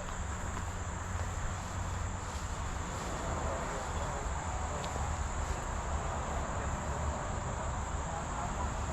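Outdoor insect chorus: a steady, unbroken high-pitched insect drone, with a low steady rumble underneath.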